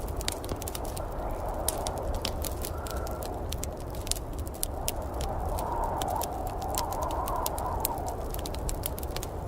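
Wood fire crackling in a fireplace, with frequent sharp pops and snaps over a steady low rumble of a storm outside. A louder swell of rushing sound rises and fades about five to eight seconds in.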